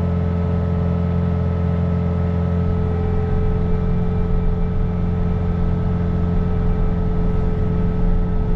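Bobcat T66 compact track loader's diesel engine running steadily with its snow blower attachment, a low drone with a steady higher tone over it.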